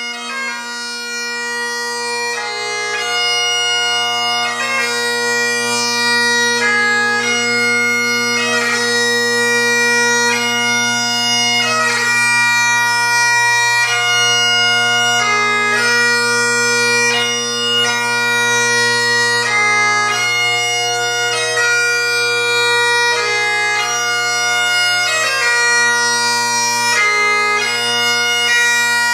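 MacLellan Royal Mexican Ebony Highland bagpipes, with Ezee drone reeds, a blackwood solo chanter and a sheepskin bag, playing a tune. The bass and tenor drones hold a steady low chord under the chanter's melody.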